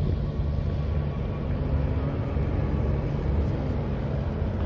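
Steady low rumble of a motor vehicle engine running, with a constant low hum.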